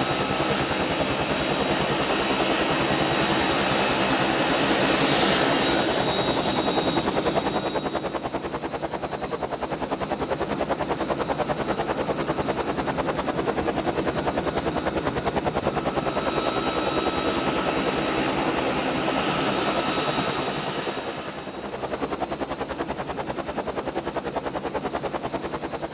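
Helicopter running: steady engine and rotor noise with rapid, even pulsing and a high whine, dipping briefly in level near the end.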